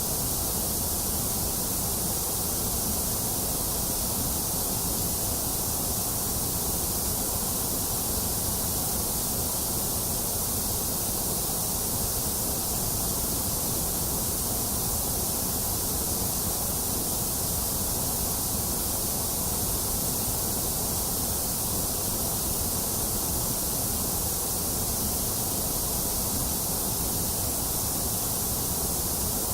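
Steady, unchanging white noise: an even hiss with no variation or events.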